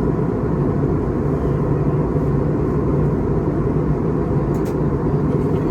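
Steady cabin noise of an Airbus A321neo in flight: an even drone of engines and airflow, strongest in the low range, with a steady low hum running through it.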